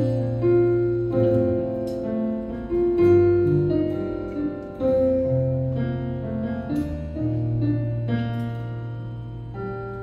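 Keyboard playing slow, held chords over a deep bass line that changes note every second or two: the instrumental intro to a worship song.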